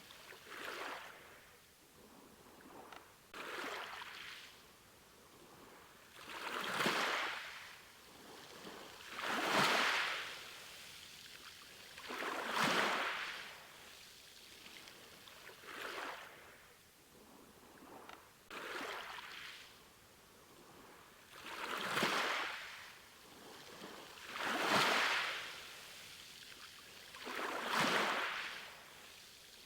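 Small sea waves washing in and drawing back, one about every three seconds, each a short swell of hiss that rises and falls away.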